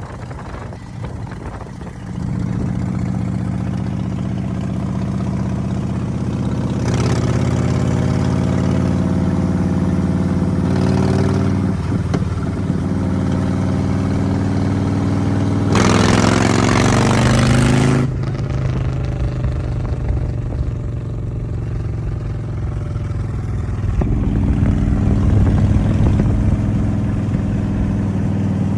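Motorcycle engine running and being revved, its pitch stepping up and down several times, with a louder rushing burst for about two seconds in the middle.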